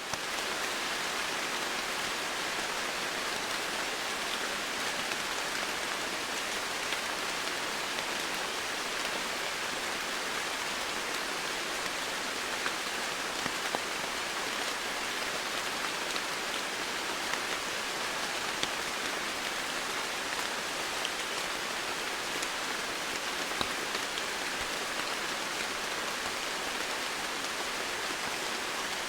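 Steady rain falling in a dense, even hiss, with occasional sharper drop ticks standing out. It fades in at the very start.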